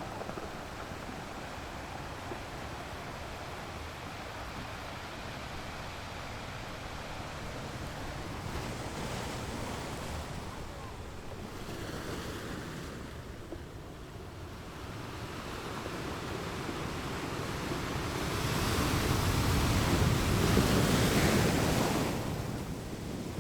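Ocean waves breaking on rocks at the shore: a steady wash of surf. The surf swells into a louder crash in the last third and eases off near the end.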